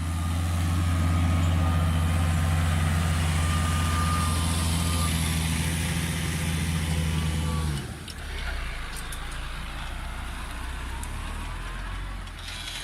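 New Holland T6070 tractor's six-cylinder diesel engine running steadily, then about eight seconds in its speed and loudness drop sharply and it settles into lower, steady running.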